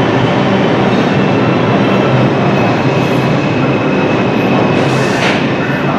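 Train running on the rails, a loud steady rush of wheel and rail noise, with a brief hiss about five seconds in.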